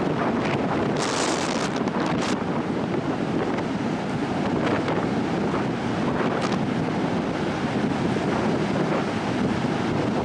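Strong coastal wind buffeting the microphone in a loud, steady rush, over the sound of ocean surf, with a brief sharper hissing gust about one to two seconds in.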